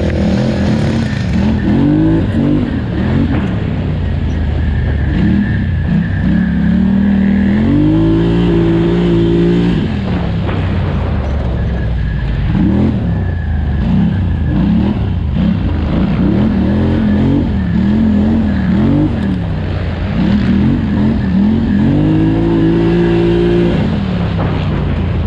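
Parallel-twin engine of a 2018 Polaris Scrambler XP 1000 ATV under race throttle, revs rising and falling again and again as the rider gets on and off the gas. The revs are held high for a couple of seconds about eight seconds in and again near the end.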